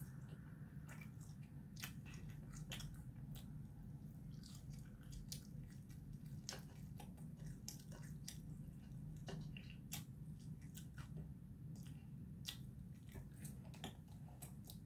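A person eating close to the microphone: chewing with irregular small wet clicks and smacks of the mouth, over a steady low hum.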